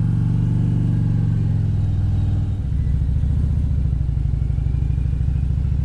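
Motorcycle engine running as the bike is ridden at low speed; its note shifts lower about two and a half seconds in.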